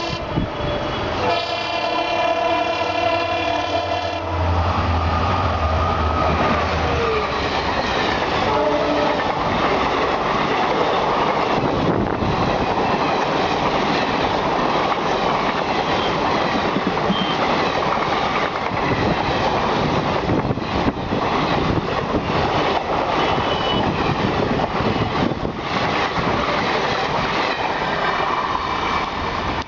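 WDP4 diesel locomotive's horn giving a hoarse, 'sore throat' blast of about three seconds. The express then passes at speed, with a continuous rush and clatter of wheels and coaches on the rails.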